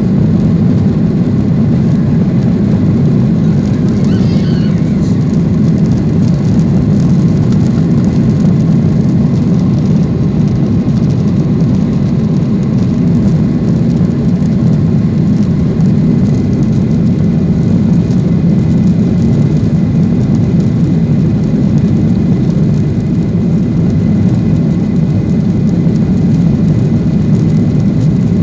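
Steady, loud roar inside the cabin of a Boeing 737-800: its CFM56-7B turbofan engines running at high thrust, with airflow noise, during takeoff.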